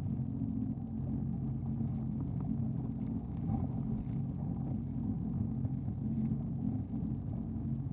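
Jet ski engine running at a steady speed with a low rumble.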